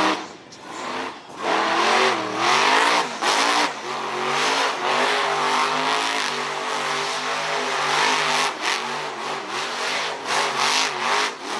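Monster truck engine revving hard, its pitch rising and falling over and over with the throttle.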